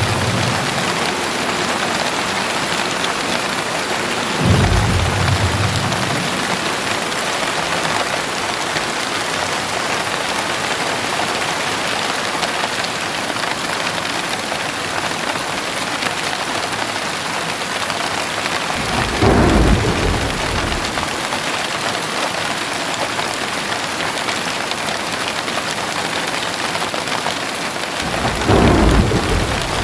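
Heavy rain falling steadily, with three short low rumbles of thunder: one about four seconds in, one about halfway through and one near the end.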